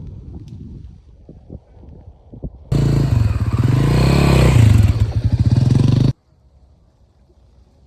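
Loncin LX300 Rally motorcycle's single-cylinder engine running loud, its pitch rising and then falling in a short rev. It starts abruptly a little under three seconds in and cuts off suddenly about three seconds later. Before it there is only a low rumble with a few knocks.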